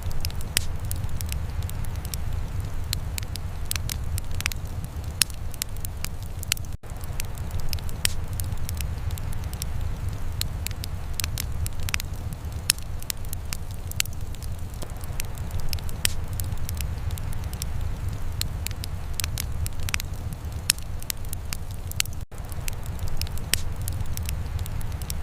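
Wood fire crackling in a fireplace, with frequent sharp, irregular pops and snaps over a steady low rumble. The sound drops out briefly twice, about seven and twenty-two seconds in.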